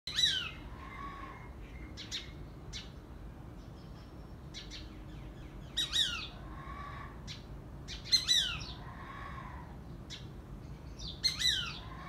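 A bird calling in four bursts of quick notes that fall in pitch, spaced two to five seconds apart; the loudest burst comes about eight seconds in.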